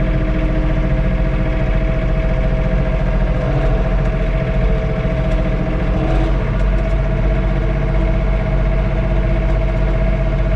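John Deere 3046R compact tractor's three-cylinder diesel engine running steadily under load, heard from inside the cab, with a steady whine over the engine note.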